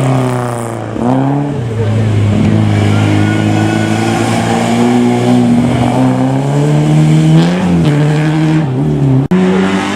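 Rally car engine under hard load, its pitch climbing and dropping sharply several times as it shifts through the gears. A brief sudden dropout comes about nine seconds in.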